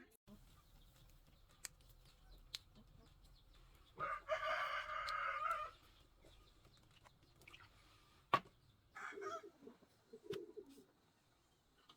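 A rooster crows once, about four seconds in, a single call of nearly two seconds. Later there is a sharp knock, followed by a few softer short clucks.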